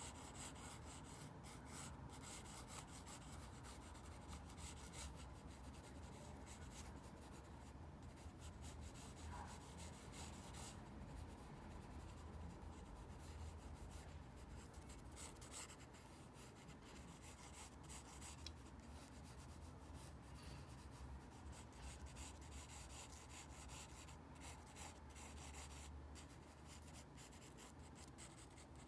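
Faint pencil sketching on paper: irregular scratching strokes, with a low steady hum underneath.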